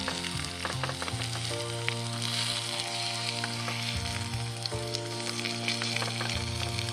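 Food sizzling and spitting on a hot grill plate, with many small pops, over background music.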